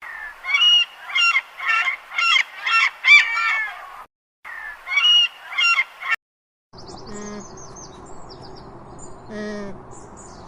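Animal calls: a run of short, repeated honking calls about two a second, cut off abruptly twice. After the second break comes a quieter stretch of high chirping with a few lower calls.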